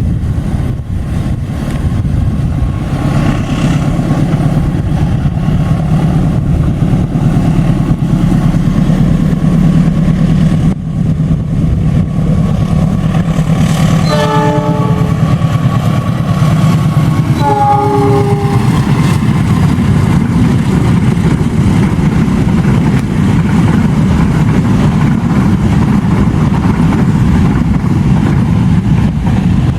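Diesel locomotive engine running as a train passes, a steady low hum, with two short horn blasts a few seconds apart about halfway through.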